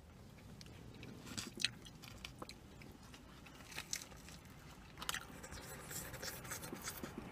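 Close-up sounds of eating: a bite into a soft flour-tortilla fish taco and chewing, with faint scattered mouth clicks and smacks.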